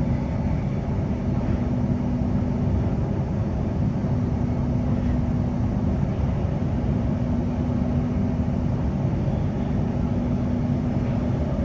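A Queensland Rail NGR electric passenger train heard from inside the carriage while running between stations: a steady rumble of wheels on the track, with a low hum that drops out and comes back a few times.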